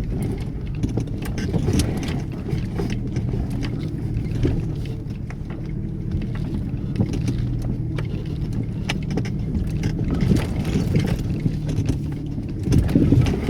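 Off-road vehicle working slowly over a rough, rutted trail: a steady low engine drone with knocks and rattles.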